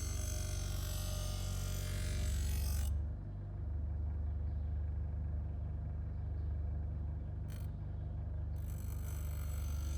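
A power tool's motor running with a steady low hum. A high, hissy grinding on metal sounds over it for the first three seconds, cuts off suddenly, and starts again suddenly near the end.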